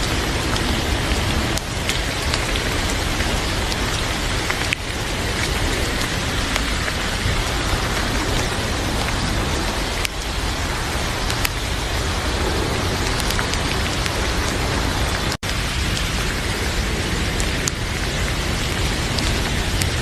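Heavy rain falling steadily, with scattered sharp crackles from a wood fire in a fireplace. The sound cuts out for a split second about fifteen seconds in.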